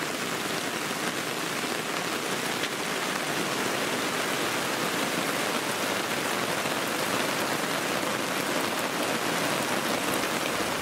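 Heavy, steady rain pouring down, heard from under a tarp shelter.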